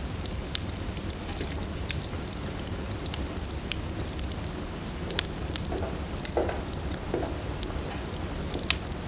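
Wood fire crackling in a fireplace: a steady low roar of the flames with sharp, irregular pops and snaps, several each second.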